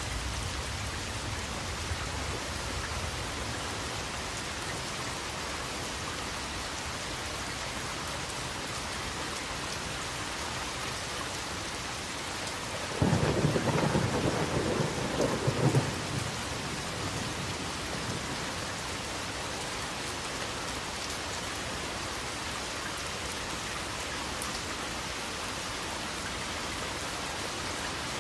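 Steady rain falling, with a peal of thunder about halfway through that rumbles for about three seconds.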